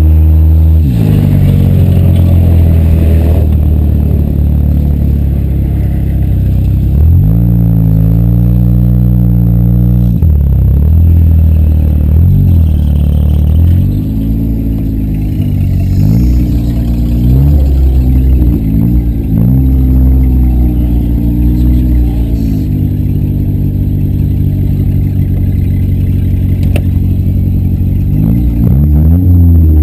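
A demolition-derby car's engine runs loud, repeatedly revving up and dropping back as the car accelerates and backs off, with some clattering. Several quick rev swings come in the middle, then a steadier stretch, then one more rev near the end.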